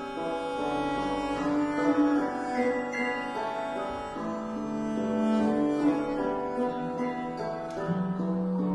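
Early-music ensemble of recorder, viola da gamba, theorbo and percussion playing a slow contemporary piece: moving melodic notes over held tones, with a long low held note starting near the end.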